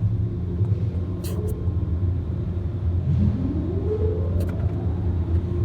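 Steady low rumble of car wash machinery heard from inside the car, with a smooth rising whine about three seconds in and a few brief sharp clicks.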